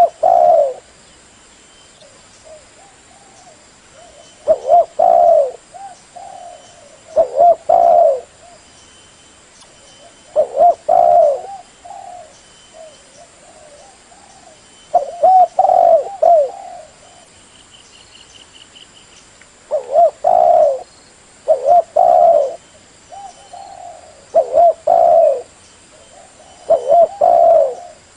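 Spotted dove (tekukur) cooing, a lure call used to draw in wild doves: loud coo phrases every few seconds, with softer coos in between.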